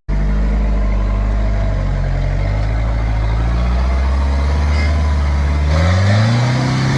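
Off-road 4WD truck engine running steadily at low revs, then revving up about six seconds in as it takes on the rocks.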